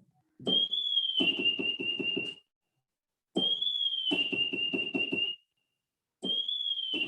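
Black kite call played three times on an electronic keyboard: each time a high, slightly falling whistle with a fast quavering trill beneath it, about two seconds long, with short gaps between.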